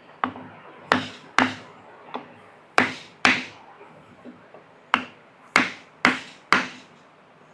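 Hammer striking through a piece of wooden board onto a truck rear-end part, tapping it into seat: about ten sharp blows in uneven groups, each with a short ringing tail.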